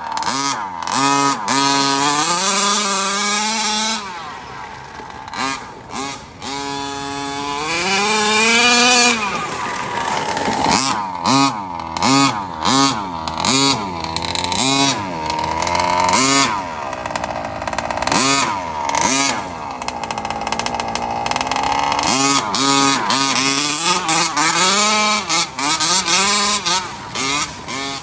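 Two-stroke gas engine of a 1/5-scale RC car with a Dominator tuned pipe, revving up and down over and over. Quick throttle blips come between steadier holds, with a few longer rising and falling revs.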